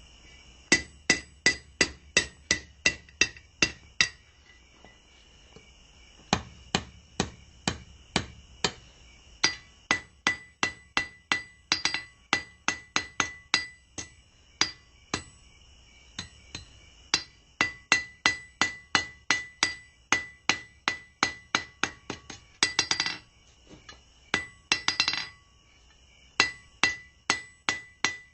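Blacksmith's hand hammer striking hot steel bar on an anvil in steady runs of about three blows a second, each blow with a bright metallic ring, drawing the fire poker's bar thinner. The runs stop briefly a few times while the work is repositioned.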